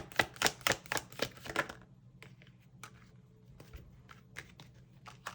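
Tarot cards being shuffled by hand: a run of quick sharp card slaps about four a second for the first two seconds, then softer scattered clicks as the cards are handled.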